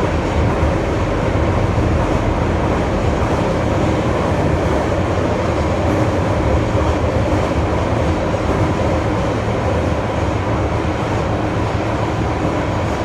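Nagoya subway N1000-series electric train running through a tunnel, heard from inside the car: a steady, loud rumble and roar of wheels on rail, with a faint steady tone.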